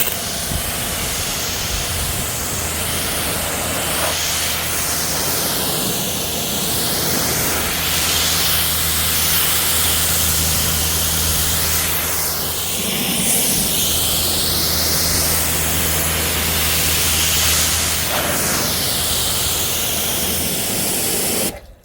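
A Kränzle electric pressure washer spraying a water jet onto the truck's bodywork, with the motor's steady hum under the hiss of the spray. The hiss shifts in tone as the jet sweeps across the panels, and it starts at once and cuts off just before the end.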